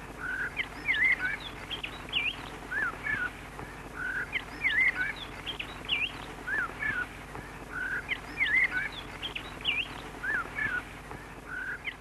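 Bird song: a phrase of quick rising and falling chirps, the same phrase repeating about every four seconds, over a faint steady hum.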